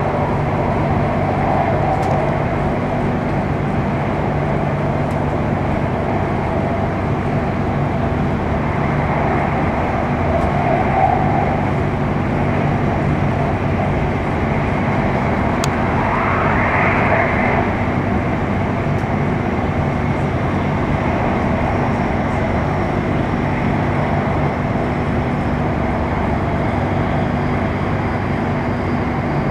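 Cabin running noise of an Airport Rail Link electric express train at speed: a steady rumble with a low hum, and a short rising whine about halfway through.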